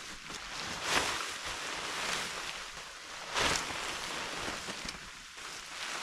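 A creek flowing with a steady rushing noise, broken twice by a brief, louder swishing rustle: once about a second in and again past the middle.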